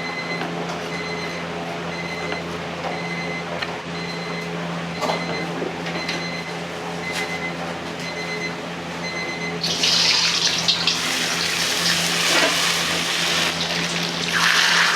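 Kitchen background noise: a steady low hum, then from about ten seconds in a loud, continuous hiss of running water or of food hitting a hot pan.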